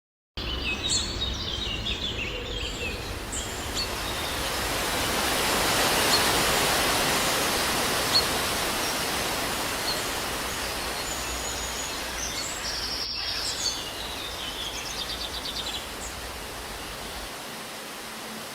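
Steady rush of falling water from a waterfall, swelling about six seconds in, with birds chirping early on and again about two-thirds of the way through.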